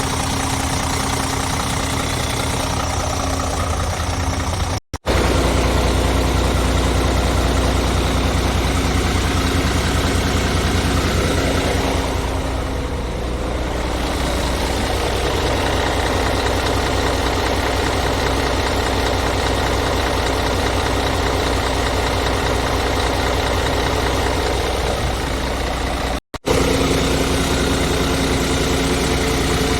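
Scania S500 tractor unit's diesel engine idling steadily, in three stretches joined by two abrupt cuts about five seconds in and near the end; the middle stretch has a deeper, louder low drone.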